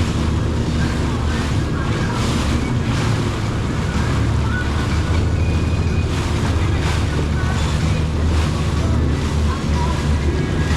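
Jet ski engine running steadily under way, with water rushing and wind buffeting the microphone.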